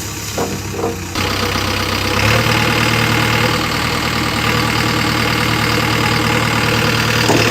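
Heavy diesel engine running, stepping up in level about a second in and again about two seconds in, then holding steady.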